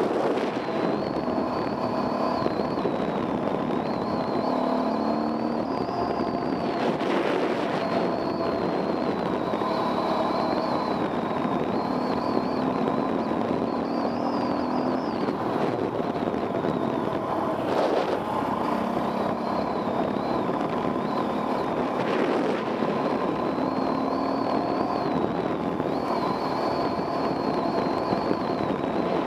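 Enduro dirt bike engine running under a rider, its revs rising and falling as the throttle is worked, with a wavering high whine over the engine note. There are a few short knocks along the way.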